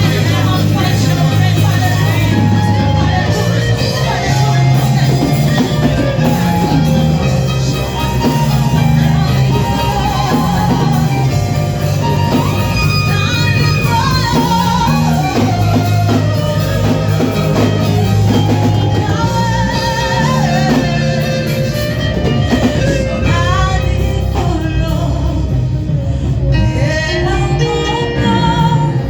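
Church worship music: voices singing a melody over a band, with a steady bass line underneath.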